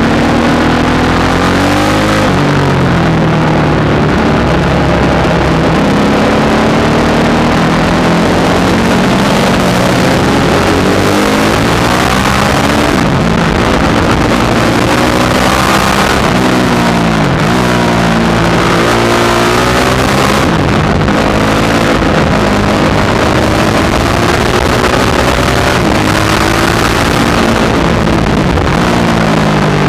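Supermoto motorcycle engine at full track pace, loud: the revs climb hard on each straight and drop away under braking and downshifts into the corners, over and over.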